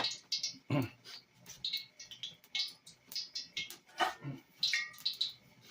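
Hot cooking oil crackling and popping irregularly in a pan, spitting in the way the cook puts down to a little water in the oil.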